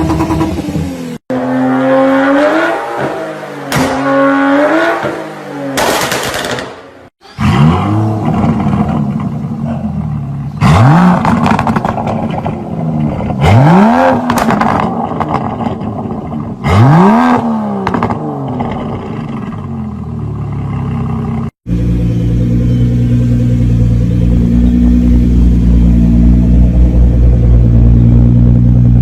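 Car engines through loud aftermarket exhausts, several short clips back to back: revs that rise and fall, then three sharp rev blips, then a deep steady idle.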